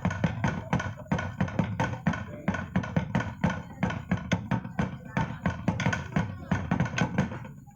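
Traditional dance music played on drums and percussion: a fast, steady beat of about five strikes a second. It breaks off briefly near the end.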